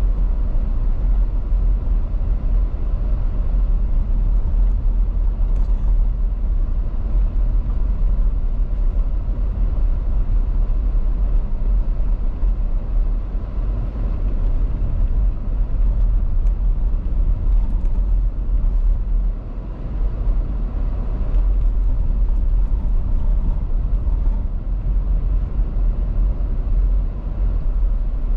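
Car driving on an icy winter road: a steady low rumble of tyres and engine, easing briefly about two-thirds of the way through.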